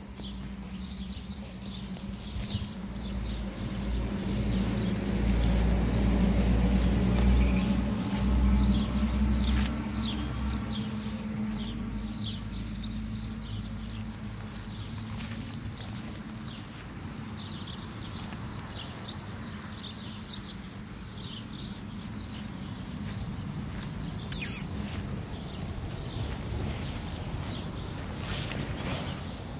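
Outdoor ambience with small birds chirping throughout, over a low steady hum that swells in the first half and fades out before the middle. A single sharp click comes about three-quarters of the way through.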